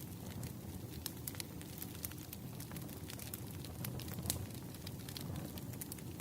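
Campfire burning: a steady low rumble of flames with irregular sharp crackles and pops of burning wood, one louder pop about four seconds in.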